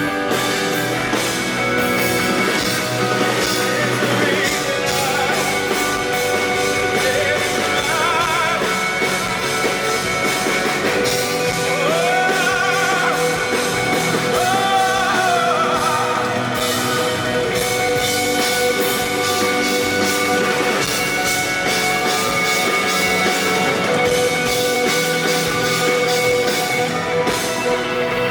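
Live rock band music: a loud, full band passage with guitar and some singing.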